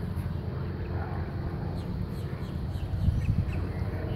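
Wetland birds giving faint scattered chirps and calls over a steady low rumble, with a louder thump about three seconds in.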